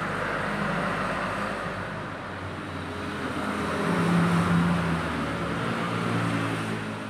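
Small motorcycle engine running and being revved, its pitch rising and falling, loudest about four seconds in.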